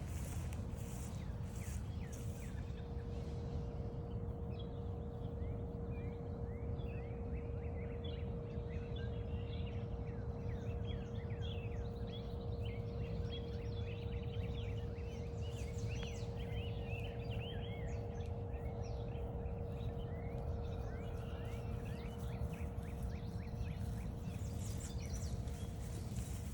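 Many songbirds chirping and singing in a dense chorus of short high calls, over a steady low rumble and a faint steady hum. Footsteps crunch on the trail at the start and again near the end.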